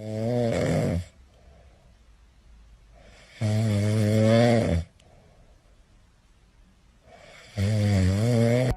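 A sleeping pet snoring: three loud, rattling snores about four seconds apart, each with a wavering pitch, and soft breaths between them.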